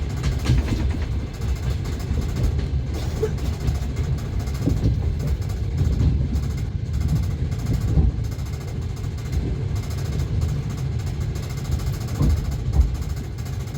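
Passenger train in motion heard from inside the carriage: a steady low rumble of the running gear, with a few sharper knocks from the wheels on the track.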